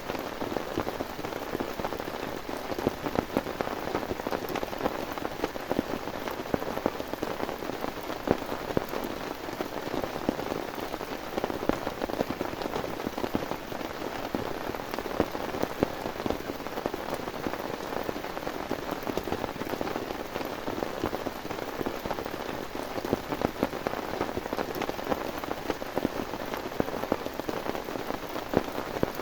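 Heavy rain falling steadily, a dense hiss with many sharp individual drop hits on a surface.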